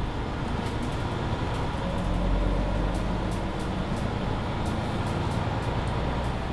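Mercedes-Benz Citaro C2 hybrid city bus driving, heard from inside: a steady engine and road rumble. About two seconds in, a low engine note comes up, and light rattles from the body recur.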